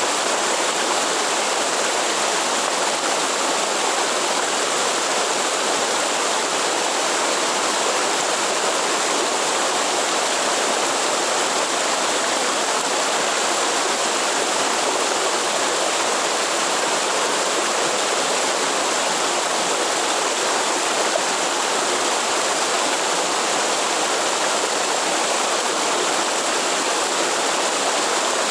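Waterfall in the forest: a steady, even rush of falling water that does not change.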